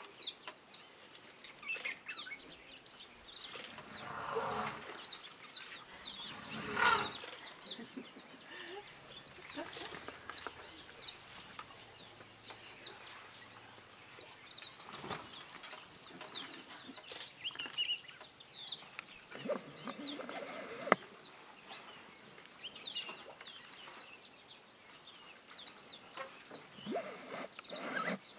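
Small birds chirping, with many short, quickly falling calls coming thick and fast. A couple of louder rustling noises come about four and seven seconds in.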